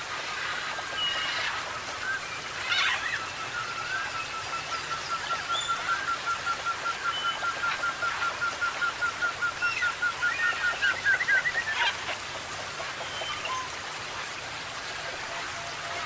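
Forest birds calling: a long run of quick, evenly repeated mid-pitched notes, about five a second, building in loudness and then stopping. Scattered higher whistles and a few sharp calls come from other birds.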